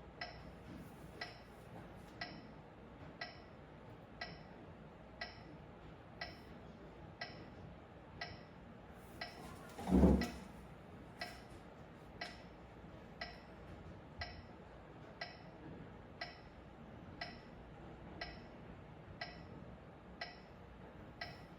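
Metronome ticking steadily at about one click a second, keeping time for piano practice. About halfway through there is one louder, dull thump.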